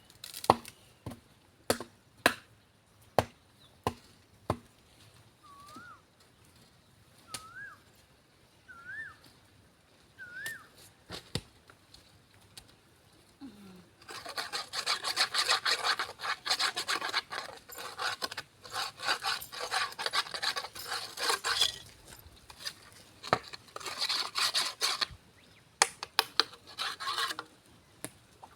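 Several sharp knocks, then a bird chirping four short notes, then a long stretch of rough scraping and rubbing.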